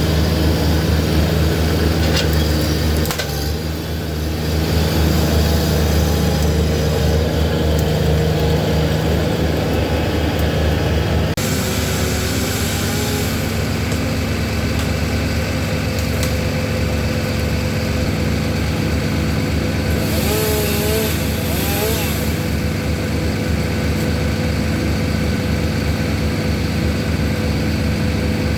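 A heavy engine running steadily with a low, even drone, changing abruptly about eleven seconds in.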